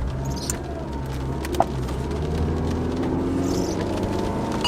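Car running, a steady low engine and road drone, with one short sharp click about a second and a half in.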